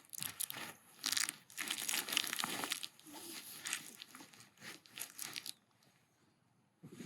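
A dachshund chewing and tearing at a toy: a dense run of irregular crackles and crunches that stops about five and a half seconds in.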